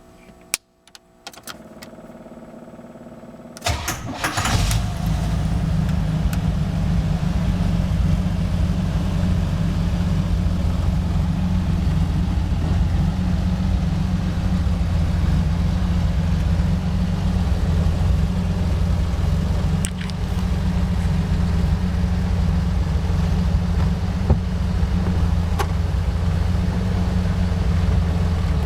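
A few clicks, then the car's 1981 Pontiac V6 cranks and starts just under four seconds in, settling into a steady idle.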